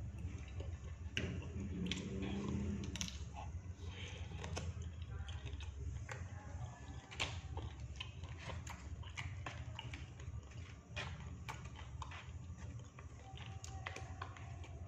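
Close-up eating sounds of someone chewing batagor, fried fish dumplings: wet mouth clicks and smacks that come irregularly throughout, over a low steady hum.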